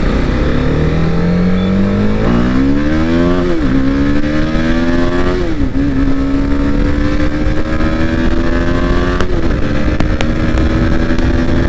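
Motorcycle engine accelerating hard up through the gears: its pitch climbs, drops sharply at each of three upshifts (about three and a half, five and a half and nine seconds in), then climbs again.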